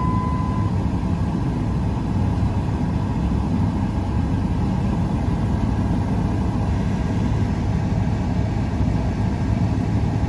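2005 Dodge Ram 1500's 5.7-litre Hemi V8 idling steadily shortly after a cold start, heard from inside the cab. A steady high electronic tone stops under a second in.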